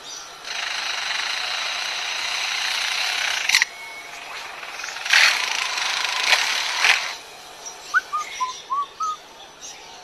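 A bird mimicking power-tool construction noise: two long, harsh, buzzing bursts of about three and two seconds, each broken off with sharp clicks, then a quick run of short chirping notes near the end.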